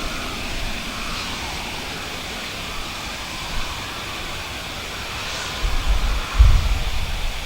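Steady rushing noise, with wind buffeting the microphone in low gusts near the end.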